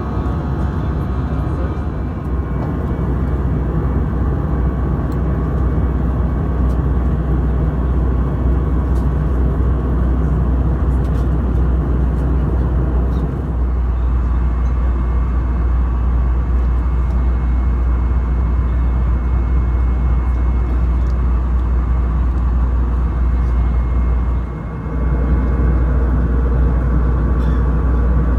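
Cabin noise inside an Airbus A320-214: the CFM56 engines and the airflow give a steady low rumble with a faint steady hum above it, dipping briefly about 25 seconds in.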